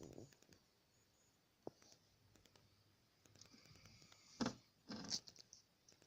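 Near silence with scattered faint clicks and rustles, and two louder knocks about four and a half and five seconds in.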